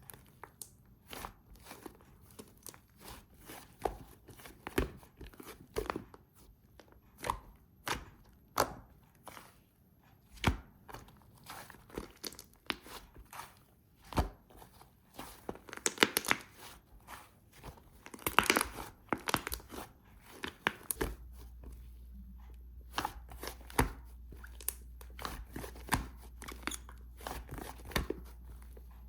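Fluffy white slime being squeezed and poked by hand, making irregular sharp clicks and pops, with longer squishy crackling stretches about halfway through. A low steady hum comes in about two-thirds of the way in.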